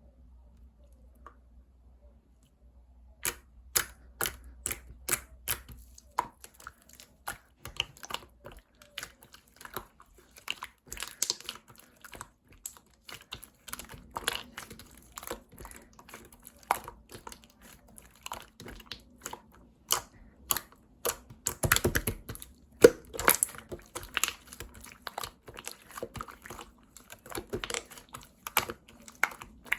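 Hands squeezing and poking mixed slime, giving quick, sharp clicks and pops of trapped air, several a second and irregular. It starts about three seconds in, after a quiet start, and grows denser and louder for a moment a little past the middle.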